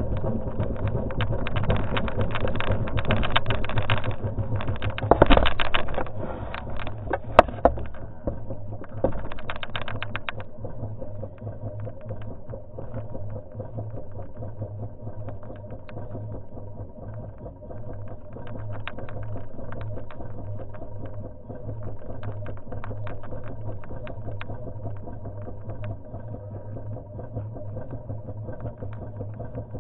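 Enduro motorcycle engine running with a steady low hum. It is louder and busier for the first ten seconds or so, with a couple of sharp knocks, then settles into an even note.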